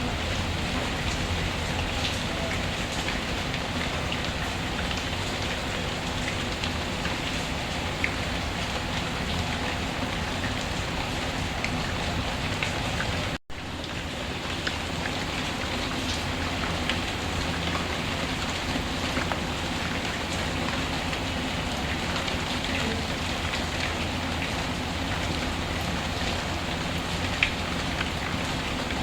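Steady rainfall with scattered crackles and pops from a wood fire. The sound cuts out for an instant about halfway through.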